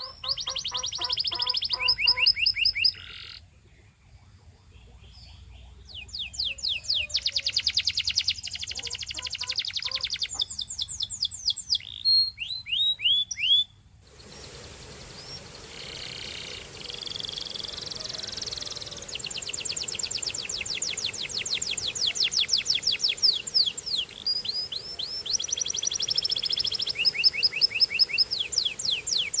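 Canary singing: fast trills of rapidly repeated notes and rolls, broken by short sets of downward-sweeping whistles. About halfway through, the sound switches to a recording with more background hiss.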